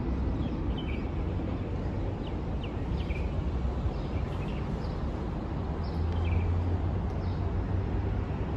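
Small birds chirping with short, falling calls, scattered irregularly, over a steady low rumble of outdoor city background.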